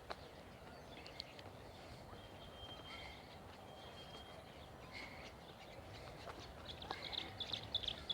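Small birds chirping and calling, with two short held whistle notes in the middle and a quick burst of chirps near the end.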